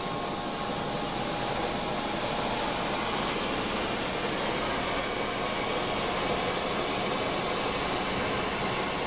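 Helicopter running: a steady, even engine and rotor noise with a few faint, steady whining tones.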